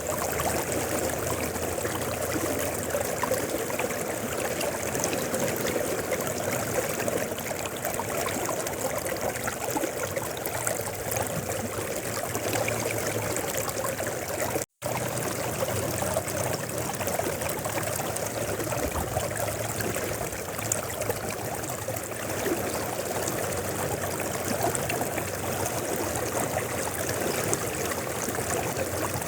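Mountain river flowing steadily, a continuous rush and trickle of water, broken by a momentary dropout to silence about halfway through.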